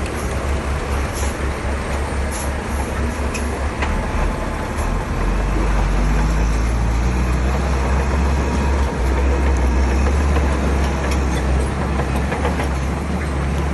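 Shantui crawler bulldozer's diesel engine running under load while pushing stone, a low rumble that grows louder and steadier about five seconds in, with scattered clicks and knocks in the first few seconds.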